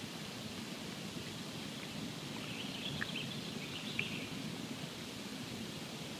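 Campfire burning with a steady hiss and soft crackle, and a few sharper pops about three and four seconds in.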